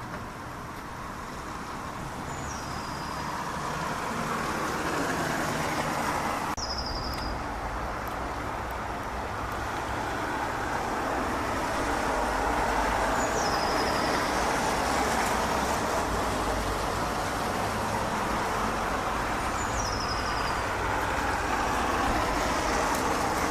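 A steady, distant rushing roar of engines that slowly grows louder, with a small songbird giving a short, high call that slides down in pitch, repeated about every six or seven seconds.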